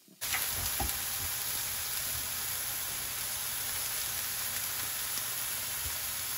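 Chicken frying in olive oil in a skillet: a steady sizzle, with a few faint knocks.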